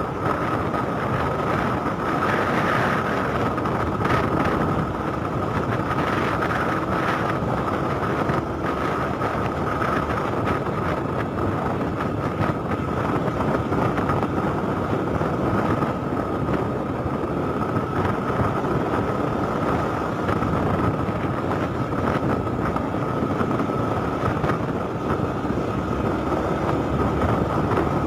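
Yamaha FZS motorcycle being ridden, its single-cylinder engine running steadily under wind and road noise on the microphone, with a steady high whine.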